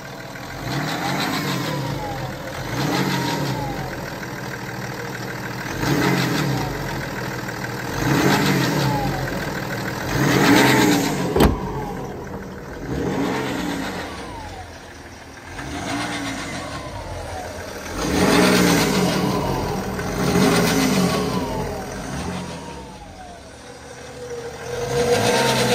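BMW X5 30d's N57 three-litre straight-six diesel being revved again and again, the pitch rising and falling about every two seconds, with the timing chain noise of a chain failing at 250,000 km. A single sharp click about eleven seconds in.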